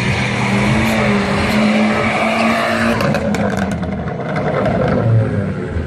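A modified car's engine revving hard, the pitch held high for about three seconds, then a quick run of pops and crackles as the revs drop away.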